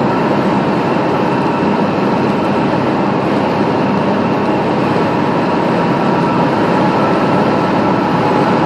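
Piper Comanche 250's six-cylinder Lycoming O-540 engine and propeller running steadily in flight, heard inside the cabin as an even drone mixed with airflow noise.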